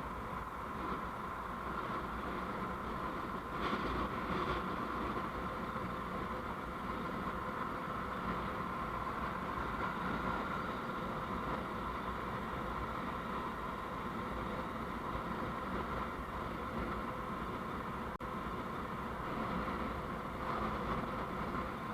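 Steady running noise of a road vehicle on the move, engine and road noise mixed, slightly louder for a moment about four seconds in.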